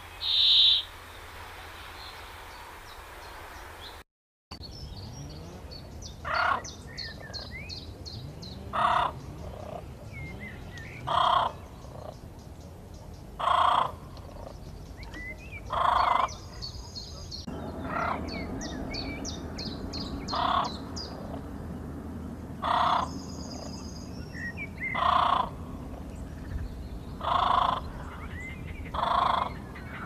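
Birds calling: one short loud call just after the start, then, after a brief dropout, a loud call repeated about every two and a half seconds, with fast runs of high chirps in between.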